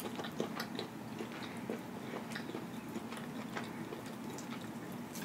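Faint close-miked chewing of chicken: soft, irregular mouth clicks and smacks.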